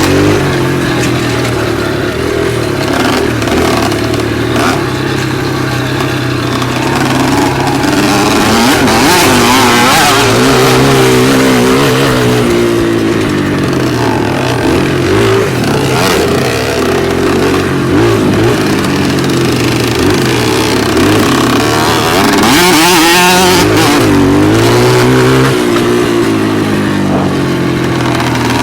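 Dirt bike engine running hard throughout, its pitch repeatedly climbing as it revs up and dropping back as the throttle is eased or a gear is changed.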